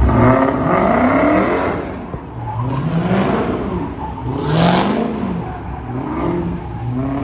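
Car engine revved repeatedly; each rev climbs in pitch and drops back, several times over.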